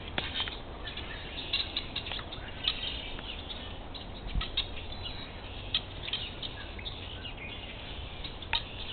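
Small birds chirping at feeders: many short, scattered chirps over a steady low rumble.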